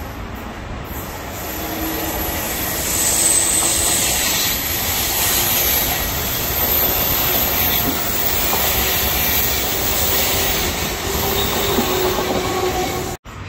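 Vivalto double-deck regional train passing close by, its wheels running on the rails with a high-pitched wheel squeal. It grows louder over the first few seconds, stays loud as the coaches go by, then cuts off abruptly near the end.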